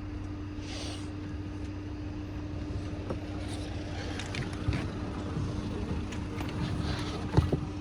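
A vehicle engine idling steadily, with a constant low hum. Light rustling and a few knocks come from items being handled, with a sharper knock near the end.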